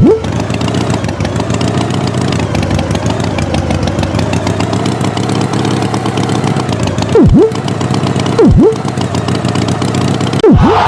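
Tractor engine sound effect running steadily with a fast putter. Four times, a loud, short swooping tone dives sharply in pitch and climbs straight back: at the start, about seven seconds in, a second later, and near the end.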